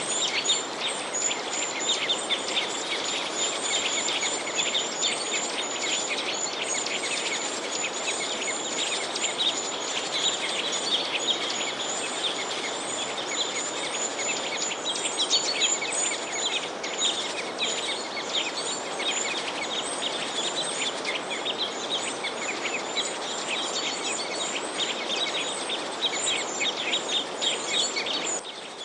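Many small songbirds chirping and twittering at once in a dense, continuous chorus over a steady background hiss. The level drops suddenly just before the end.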